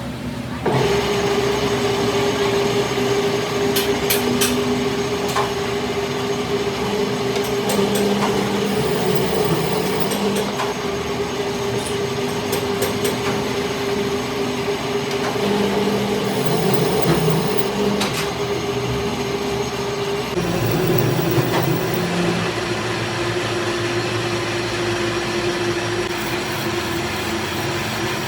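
Workshop machine running steadily with a constant hum and scattered sharp clicks. The hum changes abruptly and drops slightly in pitch about two-thirds of the way through.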